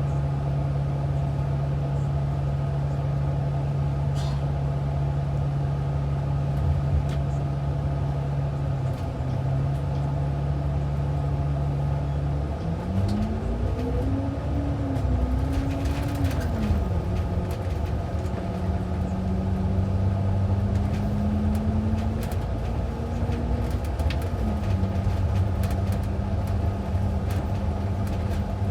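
A city bus's engine heard from inside the cabin, running steadily at low revs, then revving up about halfway through as the bus pulls away. The pitch rises, drops back with a gear change and settles into a steady cruising drone.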